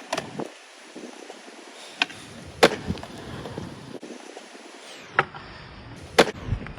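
Skateboard on Powell Peralta Dragon Formula wheels rolling on wet concrete, with about five sharp clacks of the board striking the ground. The loudest clack comes about two and a half seconds in.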